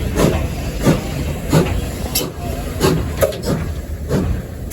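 Steam locomotive working along, heard from the cab: a steady rumble and hiss with sharp exhaust chuffs roughly every half to two-thirds of a second.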